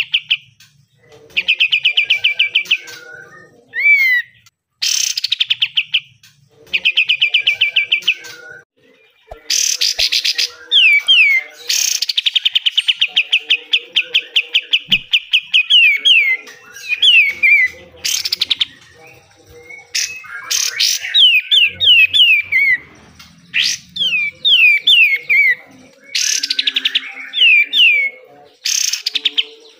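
White-shouldered triller (kapas tembak) singing in repeated loud phrases: fast trills of evenly repeated notes, one held for about four seconds, then, from about halfway, groups of sharp down-slurred notes.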